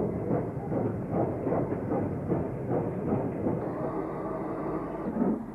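Steam locomotive running, with a steady series of exhaust beats over a continuous rumble.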